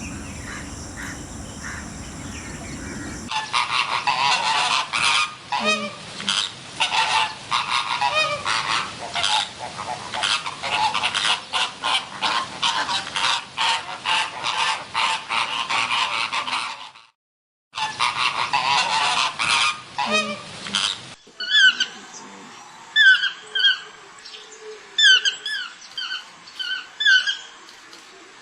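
A flock of birds honking: a dense clamour of many overlapping calls, broken by a brief cut a little past halfway, then separate short honking calls in quick groups near the end.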